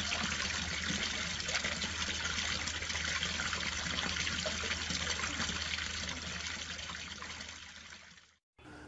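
Running water, a steady rushing hiss over a low hum, fading in the last couple of seconds and cutting off abruptly about eight seconds in.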